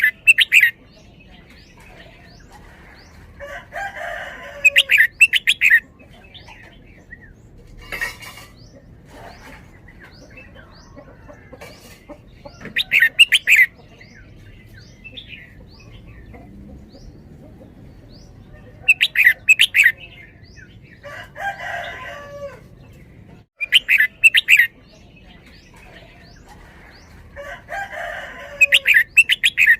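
Red-whiskered bulbul singing: short, loud, bright phrases of about a second each, repeated every few seconds with pauses between.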